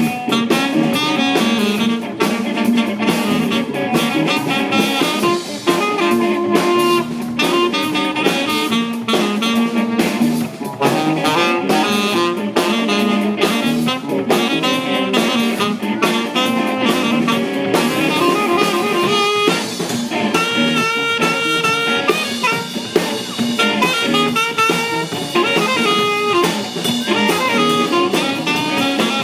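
Band playing soul jazz, with a horn line over drum kit.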